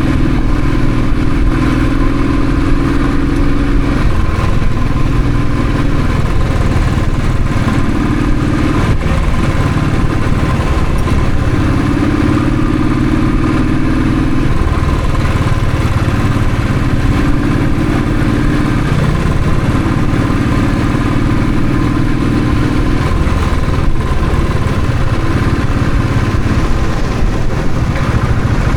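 Royal Enfield Thunderbird's single-cylinder engine running while riding, a steady low note with a higher tone that comes and goes every few seconds as the engine speed changes.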